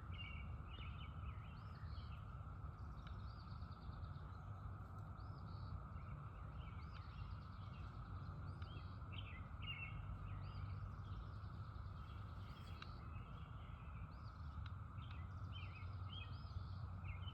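Outdoor ambience: birds chirping in short calls scattered throughout, over a low steady rumble.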